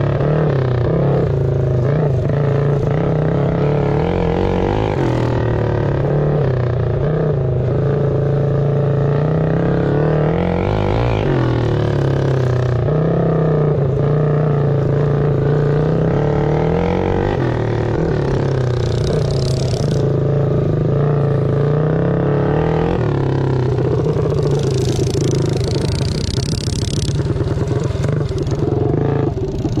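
Mini bike engines revving up and falling back over and over, the pitch climbing and dropping every couple of seconds as the bikes race around the track.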